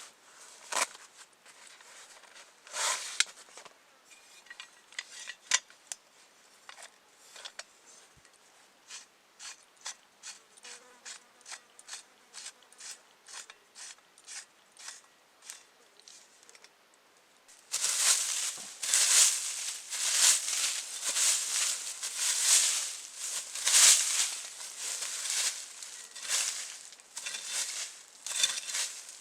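Short crisp clicks or snips, about two a second, then from about eighteen seconds in a run of louder crunching and rustling.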